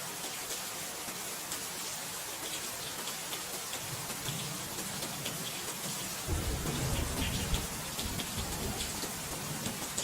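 Steady rain with a patter of individual drops, and a low rumble of thunder that builds around the middle and is loudest for a couple of seconds a little past the middle.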